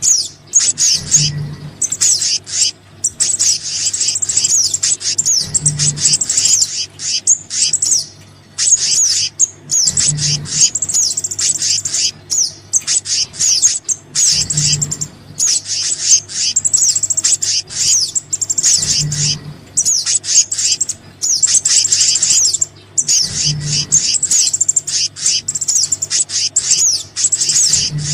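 A bird-lure recording of small birds calling: fast, dense, high chirps and trills in quick bursts with brief gaps. A soft low thump recurs about every four and a half seconds, showing that the recording is looped.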